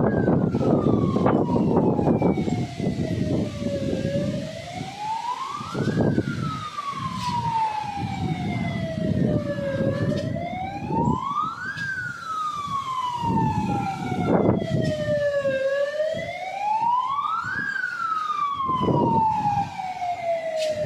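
A siren wailing in slow cycles, rising quickly in pitch and falling more slowly, about every six seconds, over a gusting rumble of wind noise.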